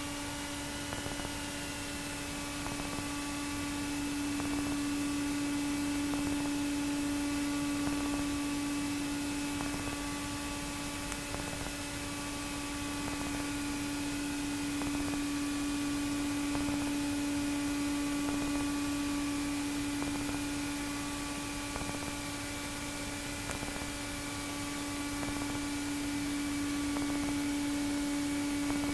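Cockpit audio through the headset intercom of a Pipistrel Virus SW light aircraft on final approach and landing: a steady engine and airflow hum with a constant low tone. A short beep repeats about every two to three seconds.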